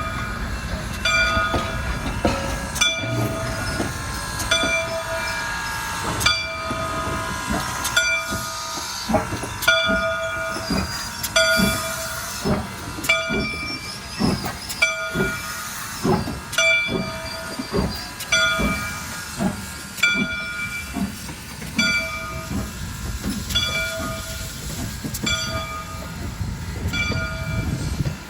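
A train rolls past, its wheels knocking irregularly, while a bell rings about once a second. Faint gliding squeal-like tones come in between about 4 and 8 seconds.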